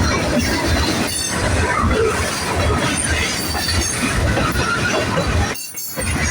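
Freight cars of an empty manifest train rolling past on steel wheels, a dense steady rumble with a brief dip in loudness near the end.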